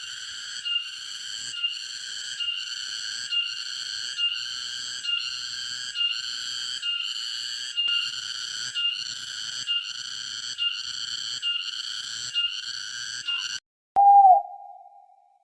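A high-pitched animal call repeated in an even rhythm, a little more than once a second, that cuts off suddenly near the end; then a short, louder, lower whistle-like tone with a falling tail.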